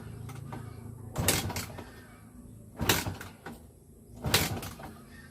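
Kawasaki KMX 125 two-stroke being kicked over with the ignition off, three kick-starter strokes about a second and a half apart, each a short swishing turn of the engine that does not fire: the engine is being turned over to lubricate it before a cold start.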